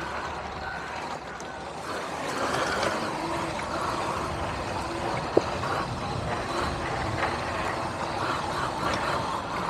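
Riding noise from an electric dirt bike: a steady rush of air and tyre noise with a faint intermittent whine, and one short sharp click about five seconds in.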